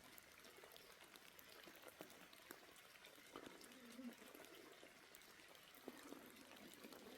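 Near silence: a faint hiss with a few scattered small clicks.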